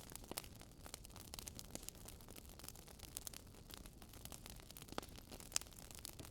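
Wood fire crackling in a fireplace: irregular small snaps and pops, with a sharper pop near the start and another about five and a half seconds in, over a faint low steady rumble.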